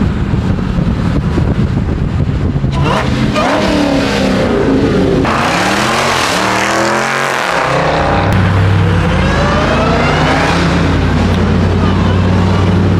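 Car engine revving: its pitch climbs and falls a few times, then settles into a steady low drone about two-thirds of the way through.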